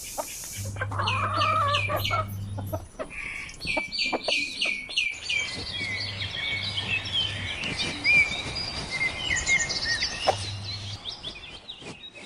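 Chickens: chicks peeping in quick runs of short falling notes, with a hen clucking lower down.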